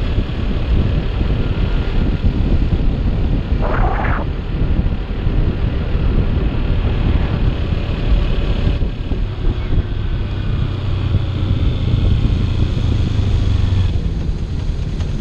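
Motorcycle engine running at a steady riding speed, with wind rushing over the rider's microphone; a steady engine hum stands out more in the last several seconds. A brief higher-pitched sound is heard about four seconds in.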